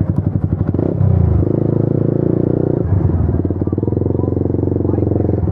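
Motorcycle engine running at low revs with an even, pulsing exhaust note, growing louder about a second in and easing back a little around three seconds in.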